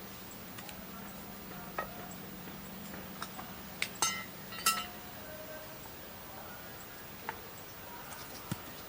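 A few light clinks and knocks, the two loudest about four seconds in and ringing briefly, over a faint steady hum.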